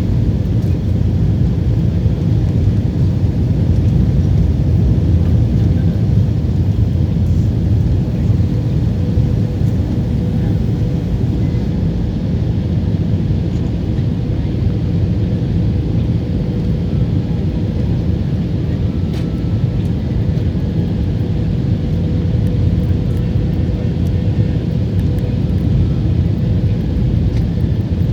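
Steady low rumble of an airliner's engines and airflow heard from inside the passenger cabin during the descent to landing, with a faint steady hum above it.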